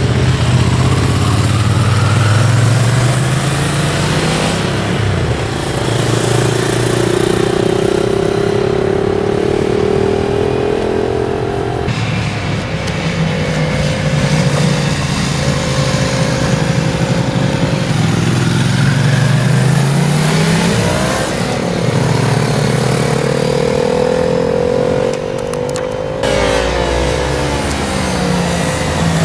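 Motorcycle engine revving up and easing off over and over, its pitch rising and falling every few seconds.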